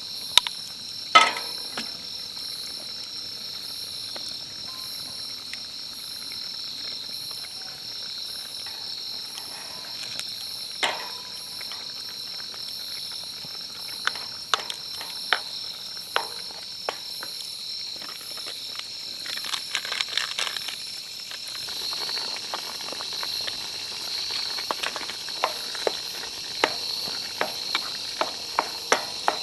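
Steady high-pitched insect chorus, with scattered sharp clicks and knocks over it, thickest about two-thirds of the way through and again near the end.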